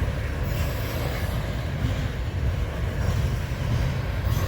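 Freight train passing, its cars rumbling steadily over the track.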